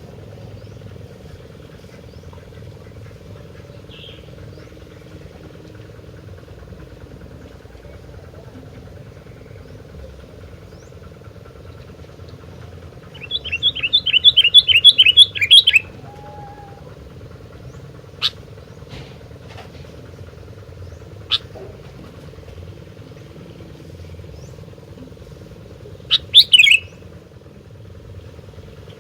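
Sooty-headed bulbul (kutilang) calling: a quick run of about ten sharp, high notes a little under halfway through, then a few single short calls and a louder call near the end. A steady background hum runs underneath.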